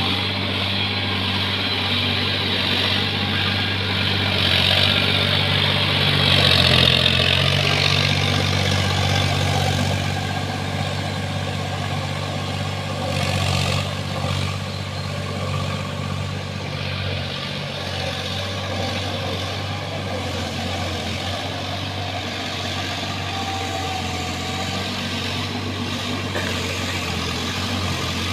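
Sonalika tractor's diesel engine running steadily, swelling louder for a few seconds around six to eight seconds in, then settling back.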